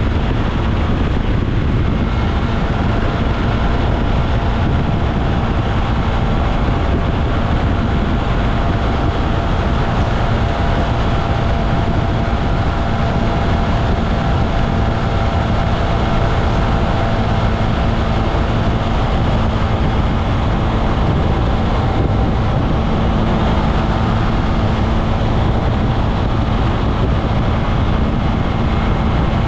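Onboard sound of a SYM Maxsym TL 508 twin-cylinder maxi-scooter being ridden at a steady speed: an even engine drone under a rush of wind and tyre noise.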